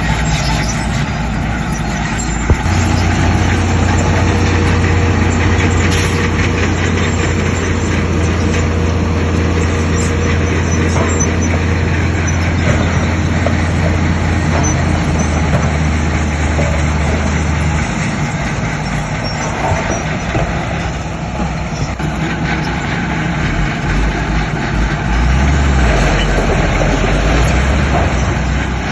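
Heavy diesel construction machinery running: a steady low engine drone comes in with a sharp knock a couple of seconds in, drops in pitch about halfway and fades, then returns unevenly near the end over constant machine noise.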